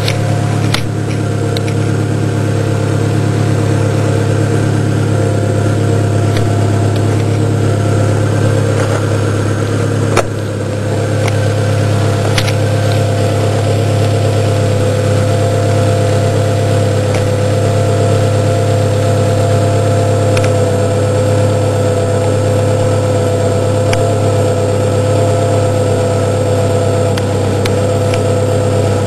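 Car engine idling steadily, with a constant low hum and a steady higher whine over it. A sharp click comes about ten seconds in, and a few fainter ones fall elsewhere.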